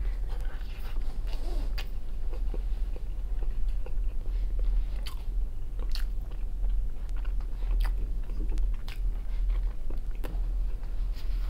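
A man chewing and biting a mouthful of fried potatoes and salo (cured pork fat) close to the microphone, with scattered sharp clicks, over a low steady hum.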